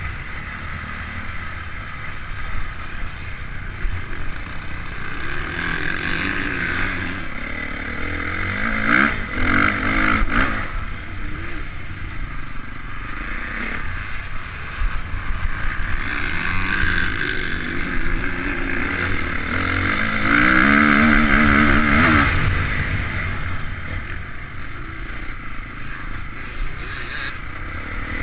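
Honda CRF450 motocross bike's four-stroke single-cylinder engine, heard onboard, revving up and backing off repeatedly as it is ridden around the track. Its pitch climbs hardest about nine seconds in and again around twenty to twenty-two seconds.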